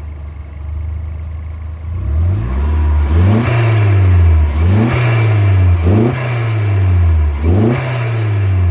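A 2001 Volkswagen Jetta's 1.8-litre turbocharged four-cylinder engine, fitted with a cold air intake and an aftermarket diverter valve, idles and is then revved four times in quick blips. Each rev falls back toward idle, and a short hiss of air comes near the top of each one.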